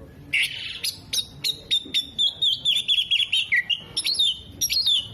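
Oriental magpie-robin (kacer) singing a fast, varied song. A few harsh chips come first, then quick whistled notes run into a rapid warbling trill that drifts lower in pitch, and the song ends in sharp up-and-down phrases.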